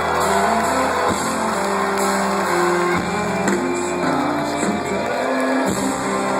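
Live rock band playing through a PA, recorded from within the crowd: guitars and band holding sustained chords that change every second or so.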